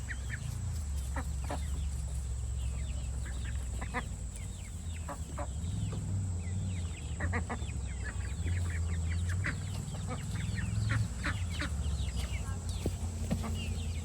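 Backyard chickens clucking, many short calls scattered through the flock, over a steady low rumble.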